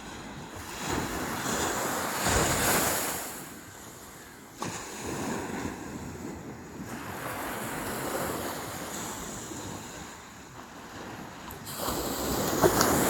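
Sea waves breaking and washing up the shore, coming in repeated surges: one peaks about two seconds in, another breaks suddenly about four and a half seconds in, and a bigger one surges near the end.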